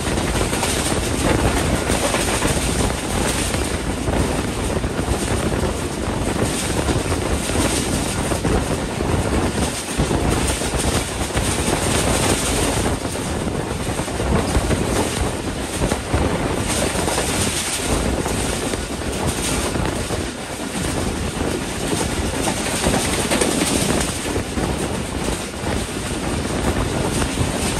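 A passenger train running at speed, heard from an open door of a coach: a steady, loud rush of wind on the microphone mixed with the rumble of wheels on the rails.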